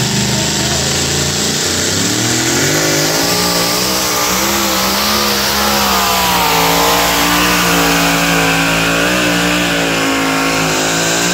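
An alcohol-burning two-wheel-drive pulling truck's engine at high revs under load during a pull. Its pitch climbs over the first few seconds, then holds high and wavers for the rest of the run.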